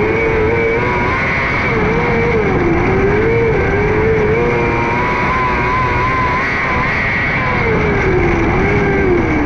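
600cc micro sprint car's high-revving motorcycle-type engine running hard, its pitch rising and falling over and over as it is throttled through the corners.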